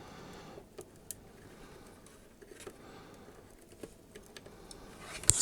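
Faint, scattered light clicks and taps of hand soldering on a circuit board, the iron and solder touching the chip's pins, with a short rustle near the end.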